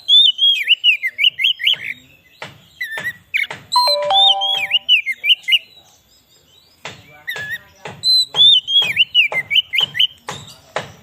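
Oriental magpie-robin singing: rapid, sliding whistled notes mixed with sharp clicking notes, in three loud phrases with short pauses between them.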